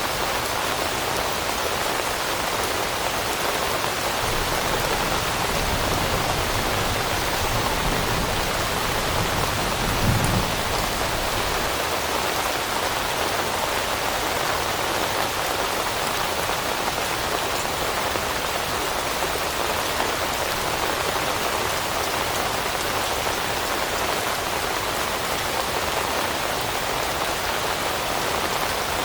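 Steady rain falling on leaves, an even patter throughout. About ten seconds in there is a brief low thump.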